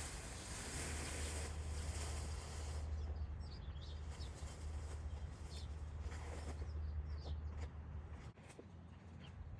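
Outdoor ambience: wind rumbling low on the microphone, with a rustling hiss for the first few seconds. Small birds chirp now and then from about three seconds in.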